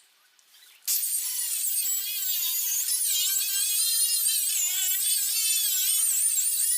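Angle grinder starting up about a second in and running at high speed against metal, its high whine wavering in pitch as it is pressed on and eased off. It is taking rust off the car's bodywork.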